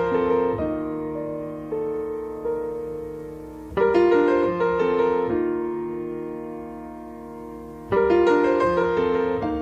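Slow solo piano music: a new chord is struck about every four seconds and left to ring and fade, with a few melody notes in between.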